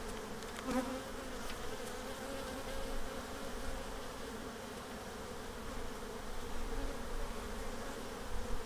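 Honeybees buzzing in a steady hum over an open hive, with a brief light knock or scrape about a second in.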